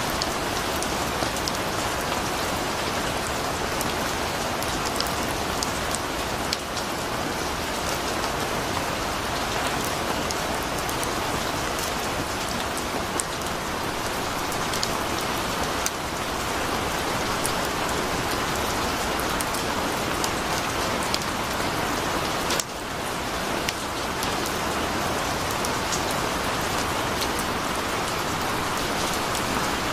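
Torrential rain falling steadily, splashing on puddled ground and stone paving, with the patter of individual drops.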